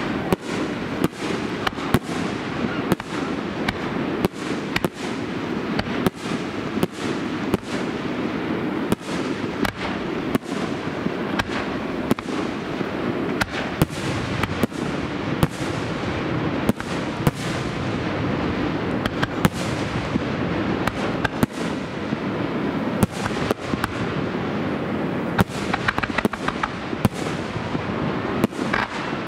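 Fireworks display: aerial shells bursting in quick succession, a dense run of sharp bangs, several a second at times, over continuous crackle and rumble.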